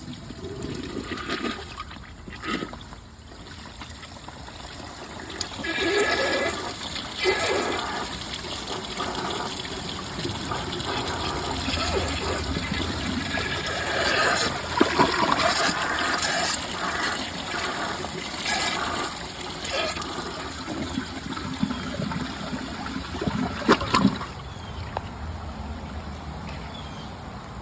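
Glacier Bay Power Flush toilet bowl, fed from a mid tank, flushing: rushing water with gurgles builds about five seconds in and runs on for some fifteen seconds before easing off near the end.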